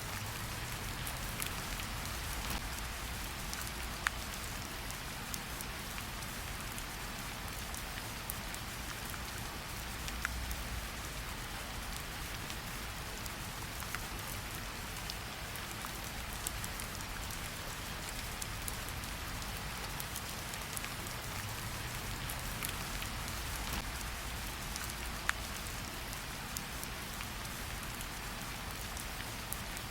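Steady rain falling, an even hiss with single drops ticking sharply every few seconds.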